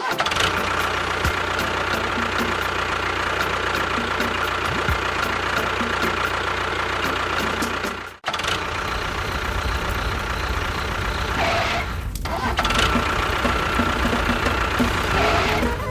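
A motor running steadily with a faint high whine. It cuts off sharply about eight seconds in, starts again at once, and dips briefly near twelve seconds.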